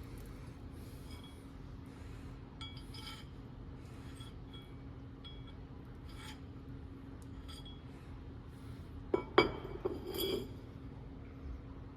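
Small metal pieces clinking with a ringing tone. A few light clinks come in the first half, then a louder cluster of knocks and clinks about nine to ten seconds in.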